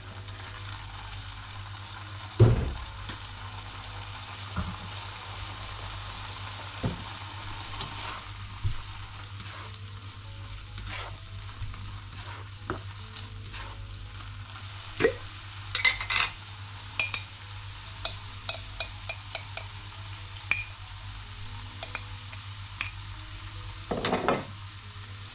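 Food sizzling steadily as it fries in a pan, stirred with a utensil that knocks and clinks against the pan. There is a louder knock about two seconds in, a run of clinks past the middle and another knock near the end.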